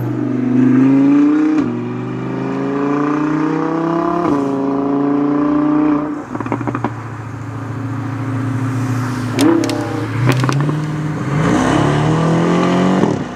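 Supercar engine revving hard around the sprint course, rising in pitch through each gear and dropping sharply at the upshifts, four times. There are a few sharp cracks when the throttle lifts midway.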